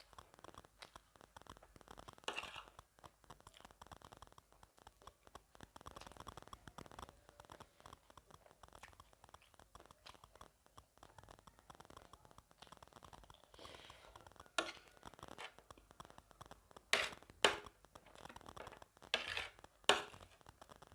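Close-miked eating of gilo chatpate, a wet, spicy puffed-rice snack: a steady run of small crunching, chewing and scraping noises. A few sharper clicks come in the last several seconds.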